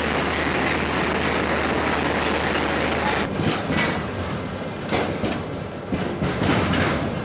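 A train running on the rails, a steady rumble with clattering from the wheels. The sound changes abruptly about three seconds in, and after that it carries irregular sharp clanks.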